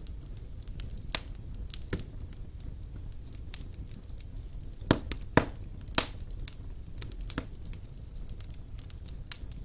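Wood fire burning in a fireplace: a steady low rumble of flames with irregular crackles and sharp pops of burning logs. The loudest pops come about halfway through.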